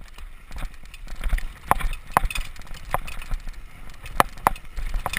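Mountain bike clattering over rough trail: irregular sharp knocks and rattles from the bike, with a low rumble of wind on the microphone.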